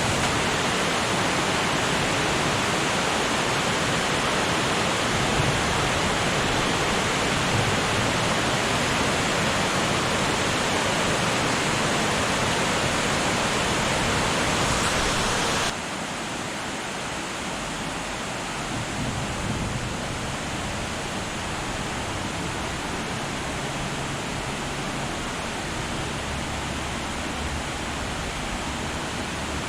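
Waterfall rushing steadily. About halfway through it drops suddenly to a quieter, duller rush.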